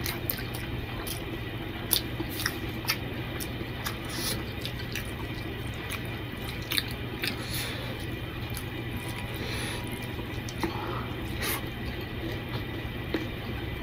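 Close mouth sounds of a person eating pulao rice and curry by hand: wet chewing and lip smacks, with sharp clicks scattered throughout, over a steady low hum.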